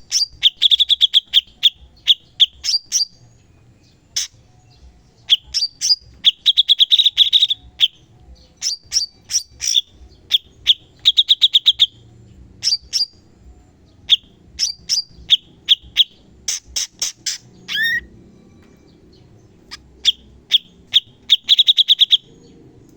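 Cucak cungkok singing in bursts of fast, rattling trills and sharp, high repeated notes, separated by short pauses: the rapid-fire 'tembakan' phrases kept by bird-keepers as training song.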